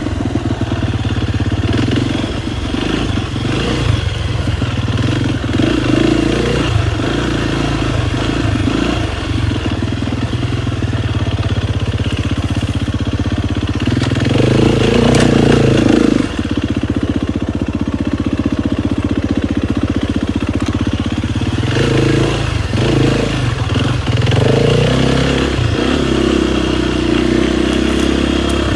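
KTM 250 XCF-W four-stroke single-cylinder dirt bike engine running as it is ridden, revs rising and falling with the throttle. There is a louder burst of throttle about halfway through.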